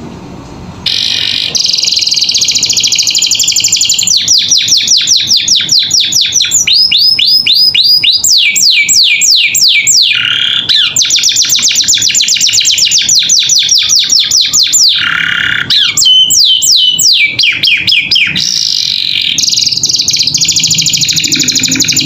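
Domestic canary singing a long, loud song of rapid trills and fast repeated down-sweeping notes, switching to a new phrase every couple of seconds.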